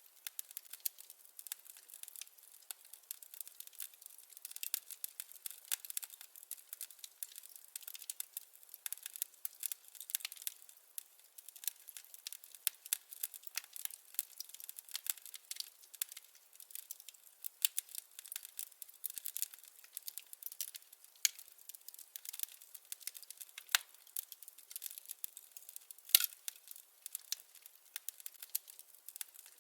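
Burning firewood crackling: a dense, irregular run of small snaps and ticks, with a few sharper pops, the loudest a few seconds before the end.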